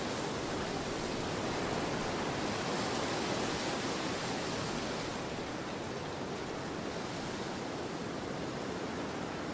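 Storm wind blowing hard and steadily, rising a little in a gust through the first half and easing after about five seconds.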